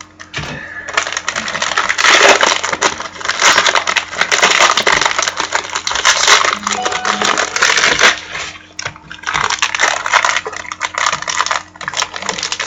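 Trading card pack wrappers being torn open and crinkled by hand: a dense crackling rustle full of sharp clicks, in two spells with a brief lull about eight and a half seconds in.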